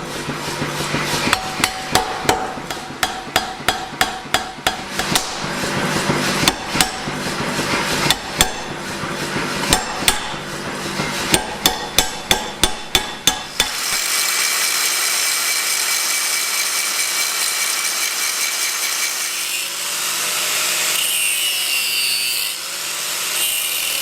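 Fast, repeated hammer blows on a hot steel bar as it is drawn out and fullered down to size, a few strikes a second. About fourteen seconds in the hammering stops and a steady power-tool run takes over, the grinding that tidies the step and chamfers the bar's end.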